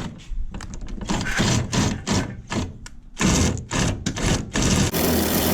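Cordless drill driving a camper jack through a socket adapter, run in short uneven bursts and then held in a steady run near the end.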